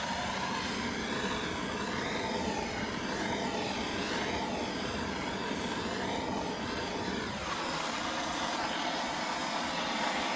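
An engine running steadily, its speed dropping about seven seconds in.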